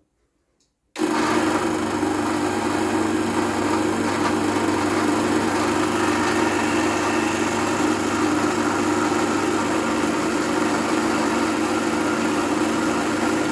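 Gaggia Classic espresso machine's vibratory pump switched on about a second in and buzzing steadily as it primes, drawing water from the tank through the machine after the solenoid valve was cleared.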